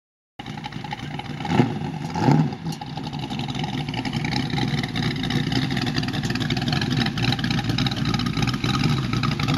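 The 450 hp 6.3-litre V8 of a 1951 Chevrolet Stepside pickup running, cutting in suddenly about half a second in. It is blipped twice, about 1.5 and 2.3 seconds in, then runs on steadily.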